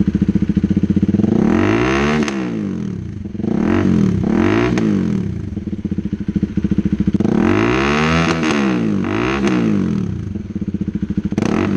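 KTM Duke 390's single-cylinder engine breathing through an IXIL 55 aftermarket exhaust with no dB killer, idling with a steady pulse and revved hard in a series of throttle blips, two longer and several short, each climbing and falling back to idle.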